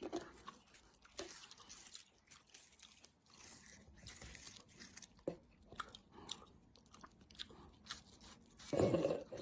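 Crunching and chewing: scattered short crisp crunches and clicks. Near the end comes a brief, louder sound with a pitch.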